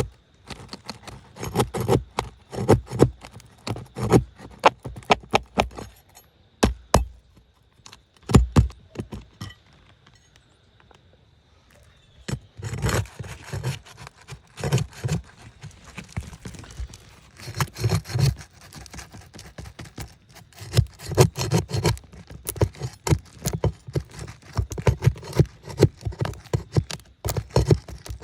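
A metal hand tool scraping, tapping and prying against asphalt shingles and a roofing nail as a deep-driven nail is worked loose. The sound comes in quick runs of clicks and scrapes, with a lull of a few seconds in the middle.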